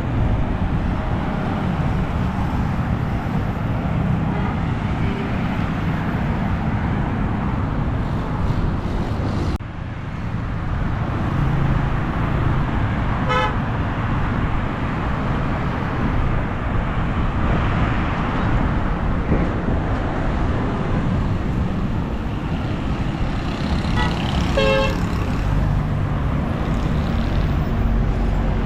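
Road traffic going by: a steady wash of vehicle noise, with short car-horn toots about halfway through and twice more near the end. The sound drops sharply for a moment about ten seconds in.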